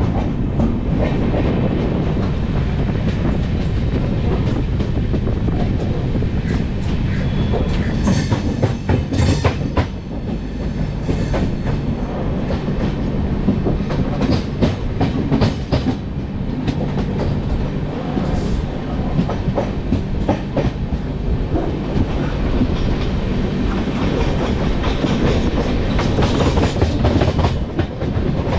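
AC double-decker express train running out of a station, heard at an open coach door: a steady loud rumble of wheels on rail, with irregular sharp clacks as the wheels cross rail joints and points, thickest from about a third of the way in.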